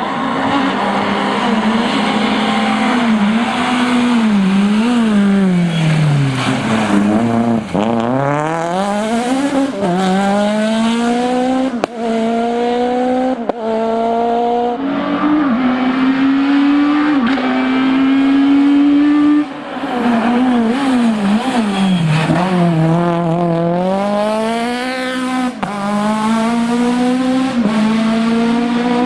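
Citroën Saxo Kit Car rally car's 1.6-litre four-cylinder engine revving hard: the pitch climbs and drops sharply at each gear change, falls away as the car slows about six seconds in, then climbs again through the gears.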